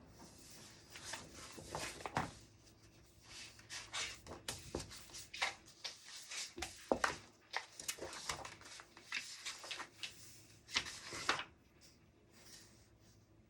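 Things being handled on a study desk: rustling, rubbing and a string of small knocks and clicks, dying down near the end.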